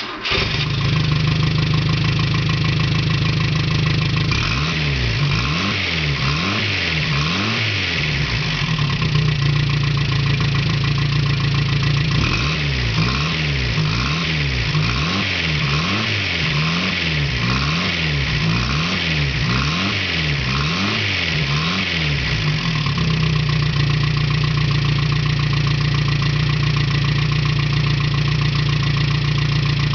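Rear-mounted engine of a classic car starting up and idling, then blipped up and down in quick revs about once a second in two spells, settling back to a steady idle near the end.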